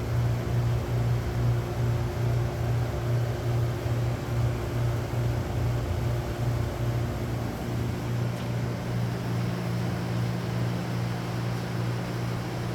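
Shop machinery running steadily: a low hum that pulses about three times a second, with a steady tone that gives way to a lower one about two-thirds of the way through.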